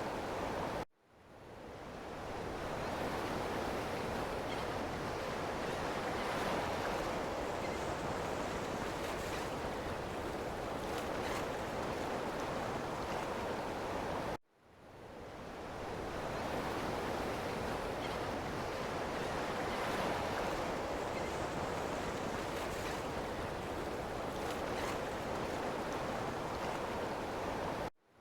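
Ocean surf washing steadily, an even rushing hiss. Twice it cuts out suddenly, about 13.5 seconds apart, and swells back in over a second or two, the pattern of a short wave recording looped with a fade-in.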